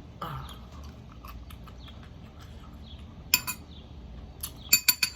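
Cutlery clinking against dishes: a run of small taps and clicks, then sharp, ringing clinks about three seconds in and a quick group of them near the end.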